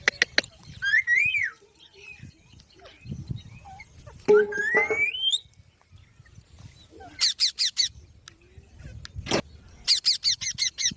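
Pet Indian ringneck parrots calling: a rising and falling whistle, a long rising screech a little past four seconds in, and two fast runs of short, sharp repeated chirps near the end.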